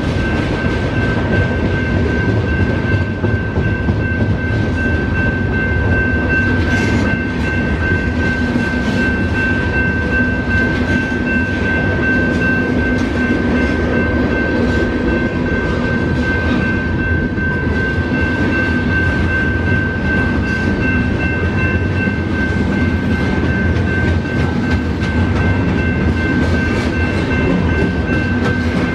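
Freight cars of a passing train (tank cars, boxcars and covered hoppers) rolling by at a steady pace: continuous rumble and clatter of steel wheels on the rails. A steady high tone sounds above it throughout.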